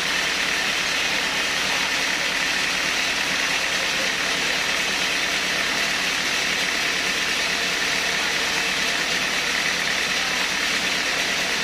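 Sawmill saw machinery running steadily, a continuous even whine and hiss with no breaks.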